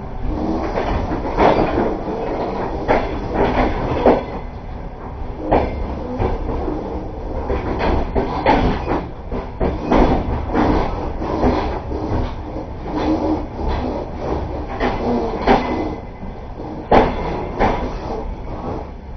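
Passenger train carriage running on the rails, heard from inside the carriage: a steady rumble with irregular knocks and clatter from the wheels.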